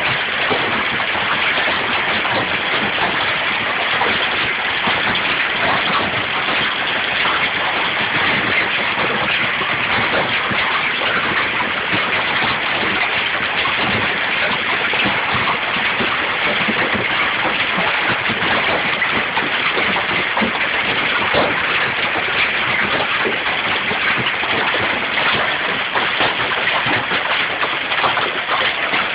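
Hail pelting down: a loud, steady clatter of countless small hits on the ground and hard surfaces, with a rain-like hiss.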